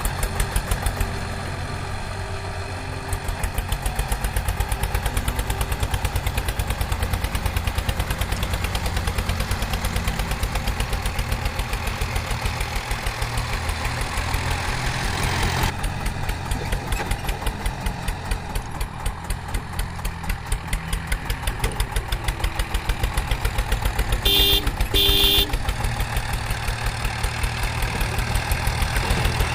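Engine sound, like a heavy vehicle's diesel idling, with a steady rapid pulse. Two short high beeps sound about three quarters of the way through.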